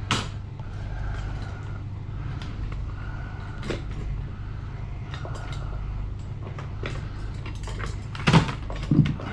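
Hand tools and screwdriver bits being handled while swapping for one that fits a screw: scattered small clicks and knocks, with two louder knocks near the end, over a steady low hum.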